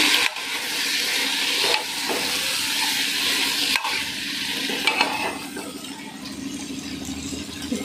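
Ridge gourd, potato and soya chunks sizzling as they fry in masala in an open pressure cooker, stirred with a steel spatula that scrapes and knocks against the pot a few times. The sizzle turns quieter in the last few seconds.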